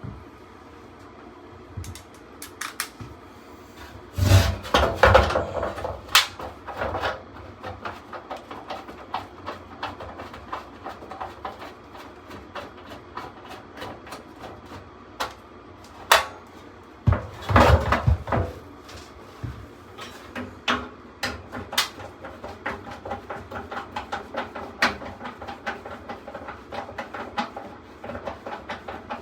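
Clanks, knocks and clicks of hand tools and metal parts as a furnace blower assembly is taken apart, with two louder bursts of knocking, about four and seventeen seconds in.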